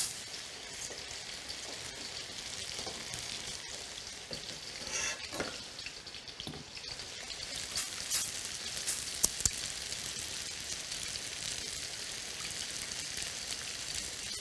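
Zucchini slices frying in shallow oil, a steady sizzle with crackles, while a whisk stirs against a steel pot, adding a few sharp clicks, as milk is whisked into a roux for béchamel.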